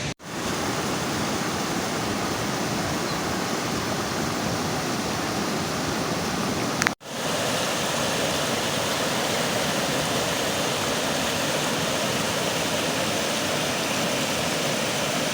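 Steady heavy rain, an even hiss with no pattern, cut off briefly about seven seconds in.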